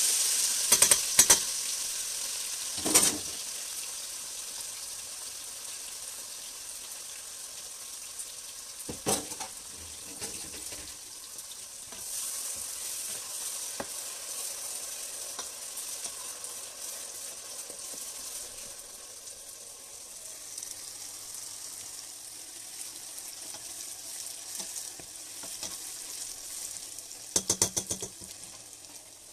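Blended pepper, onion and crayfish poured into hot palm oil in a stainless steel pot: a loud sizzle that fades over the first few seconds into a steady frying hiss. A spatula stirs and knocks against the pot now and then, with a quick run of knocks near the end.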